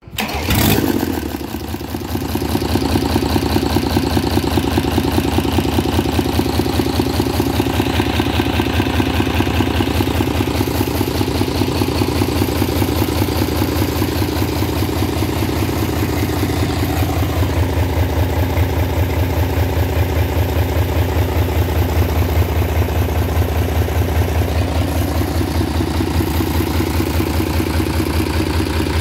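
Deutz F6L912 air-cooled inline six-cylinder diesel engine running steadily at idle, with an even, rapid firing pulse.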